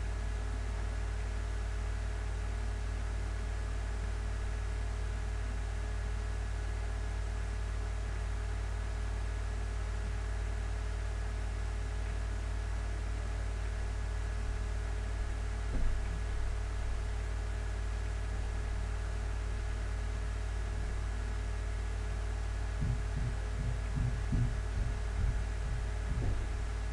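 Steady low electrical hum with a few faint steady higher tones over light hiss, with a few soft low bumps about two-thirds of the way in and again near the end.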